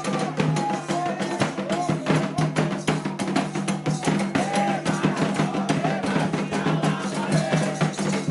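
Candomblé ritual music: hand drums beating a fast, dense rhythm under voices singing.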